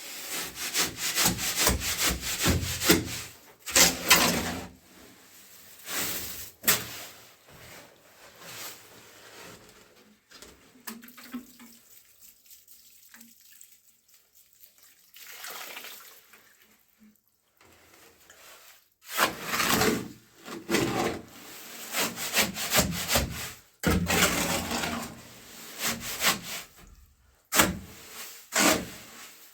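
Repeated scraping and rubbing strokes of a hand tool on a rough surface, in quick runs. A sparser, quieter stretch comes in the middle before the strokes pick up again.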